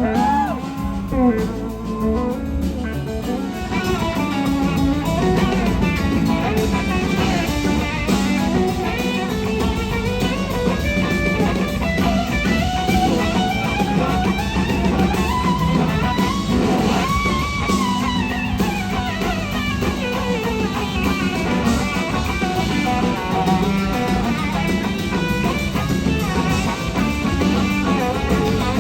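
Live blues-rock band: an electric slide guitar solos, its notes gliding and bending up and down, over drums and bass. The band fills in fuller about four seconds in.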